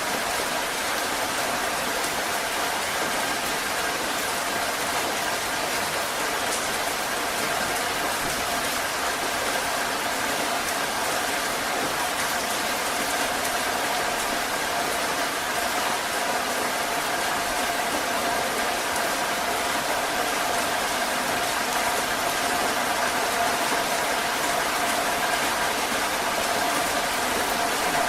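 Heavy rain falling steadily in a continuous dense hiss, with a faint steady hum under it.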